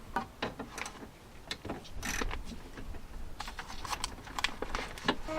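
Ratchet with an 8 mm socket clicking in short irregular runs as a bolt inside the door is turned, with small metal clicks and knocks of the tool.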